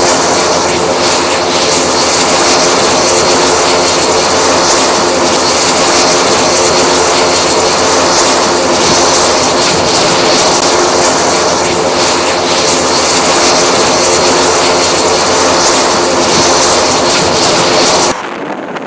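Military aircraft engines running steadily at high power on a carrier flight deck, a loud, even drone with a hiss over it, cutting off suddenly near the end.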